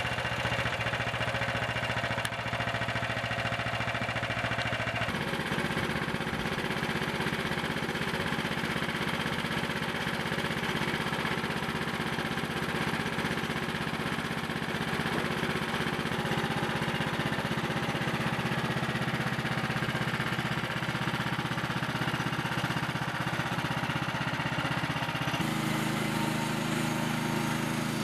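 Frontier portable bandsaw mill's small gasoline engine running steadily. Its sound changes abruptly about five seconds in and again near the end.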